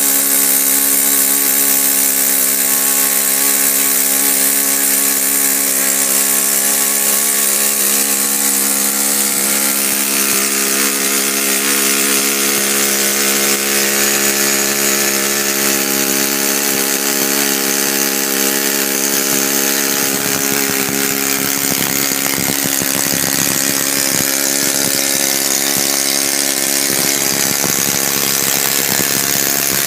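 Kalt 45 model four-stroke engine, 35 years old, running at a steady speed with an even, pitched note. From about twenty seconds in the running turns less even and the note goes rougher.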